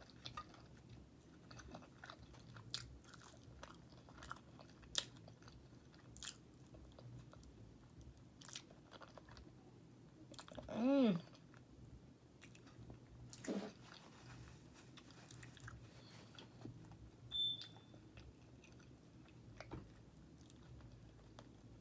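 Close-up mouth sounds of eating buttered lobster tail meat: soft wet chewing, lip smacks and finger licking with many small scattered clicks. About eleven seconds in comes a short hum that falls in pitch.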